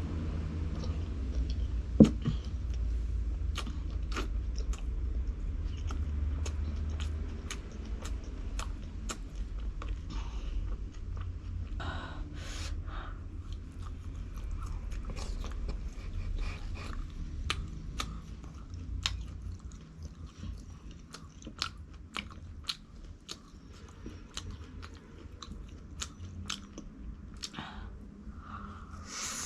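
Close-miked chewing and biting of food, with many small crisp crunching clicks and mouth sounds at an irregular pace and one sharp louder crunch about two seconds in. A low background rumble underlies the first several seconds and fades out.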